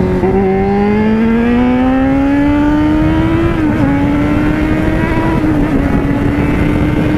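Yamaha FZ6N's inline-four engine pulling up through the revs under throttle. About three and a half seconds in the pitch dips briefly at an upshift, then holds steady at cruising speed, with wind and road noise underneath.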